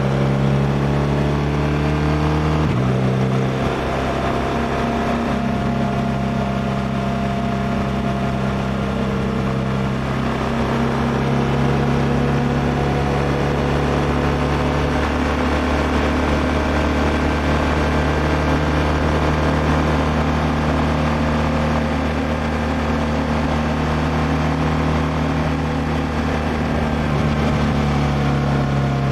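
2016 BMW R1200R's flat-twin boxer engine running under way, its pitch drifting gently, with a sudden break and change in the engine note about three seconds in.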